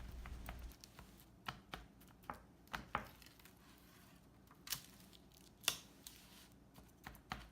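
Fork being jabbed repeatedly into raw marinated beef steak to tenderize it, with short sharp taps coming at irregular intervals.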